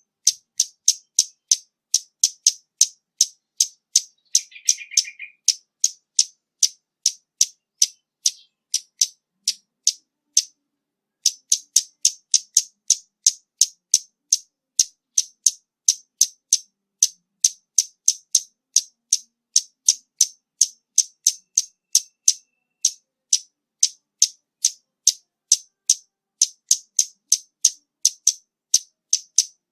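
Female scarlet-backed flowerpecker calling: a sharp, high tick repeated steadily about two to three times a second, with a pause of about a second near the middle. A short lower chirp comes about five seconds in.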